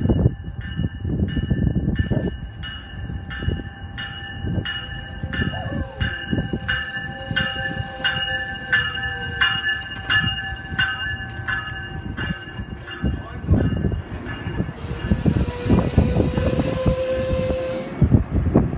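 Metrolink commuter train pulling into a station: its bell rings steadily at about three strikes a second over a low rumble of wheels, with faint squealing. The bell stops about two thirds of the way through, and near the end a loud burst of air hiss runs for about three seconds and cuts off suddenly.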